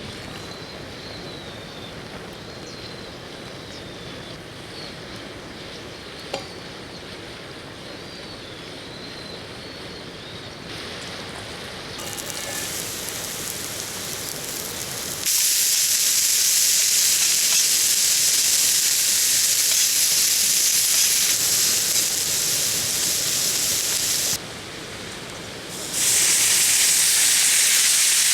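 Steady rushing of riverside water with a few faint bird chirps, then a loud, steady frying sizzle of food in a pan, which breaks off for a moment a few seconds before the end and comes back.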